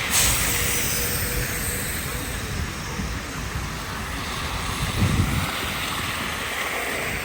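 Downtown street traffic passing on snowy roads: a steady rushing noise of tyres and engines, a little louder just after the start, with a low thump about five seconds in.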